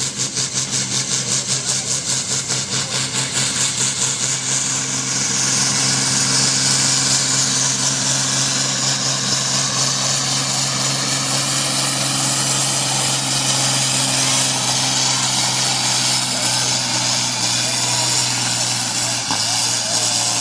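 Pulling tractor's engine, loud. It starts with an even pulsing beat, then is throttled up about four to five seconds in and held at high revs, running steadily under load.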